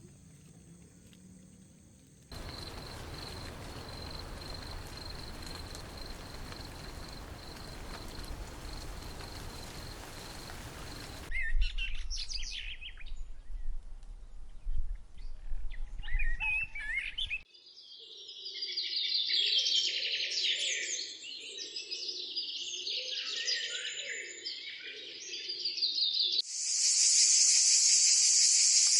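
Outdoor nature sounds in several cut clips: a steady hiss at first, then birds chirping and singing in rapid, varied calls, and near the end a loud, steady, high hiss that starts abruptly.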